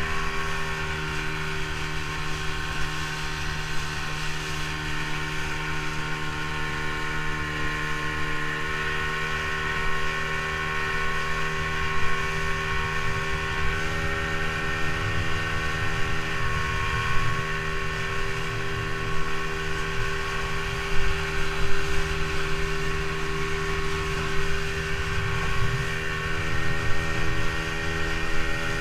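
Motorboat engine running at a steady pitch, with rough rushing noise underneath.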